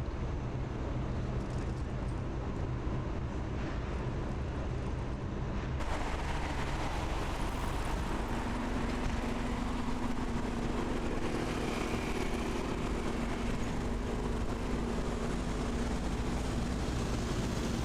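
Steady vehicle engine noise, with a change in its sound about six seconds in and a steady low hum joining soon after.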